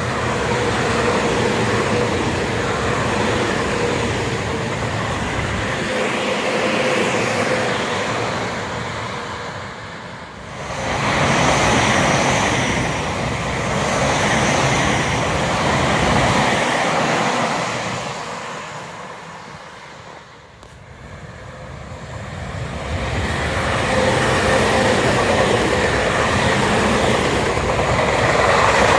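Tobu Tojo Line electric trains passing close by, the running noise swelling and fading, with dips about ten and twenty seconds in.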